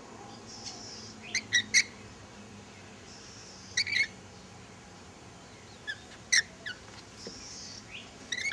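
Wild Australian birds giving short, sharp chirps in small clusters, a few calls at a time about every two seconds.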